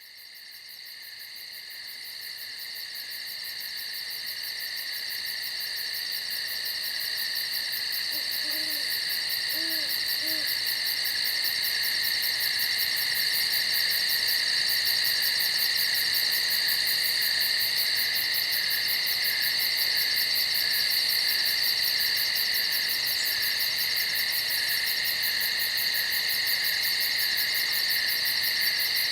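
Dense night insect chorus of high, steady buzzing trills with a fast, even pulse, fading in over the first ten seconds. An owl hoots softly about three times a third of the way in.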